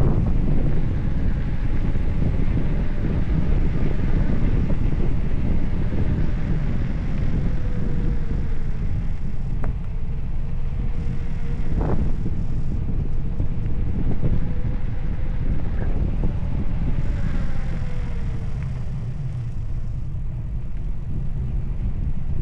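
Wind buffeting the microphone, a loud steady low rumble, with a faint wavering whine through the middle and a couple of short clicks.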